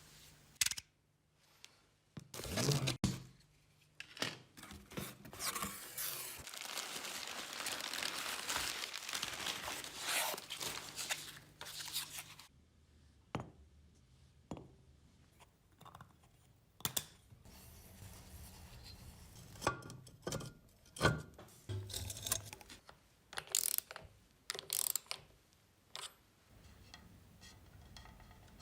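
Workshop hand work: scattered clicks and knocks of tools and parts, with a rough, steady hiss lasting about six seconds in the middle.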